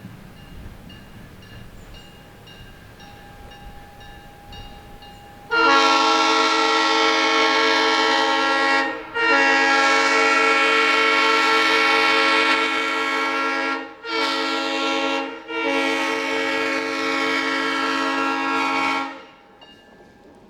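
Locomotive air horn sounding a chord of several steady tones in two long blasts, one short and one long. This is the standard signal for approaching a public grade crossing.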